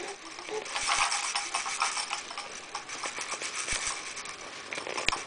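A baby's toy rattling and clattering without a break as she kicks it with her feet, with a few sharper knocks near the end.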